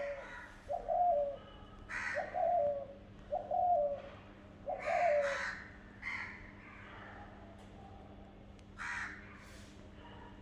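Birds calling: a run of short, harsh calls, each falling slightly in pitch, about one a second at first and then more spaced out, with one more near the end.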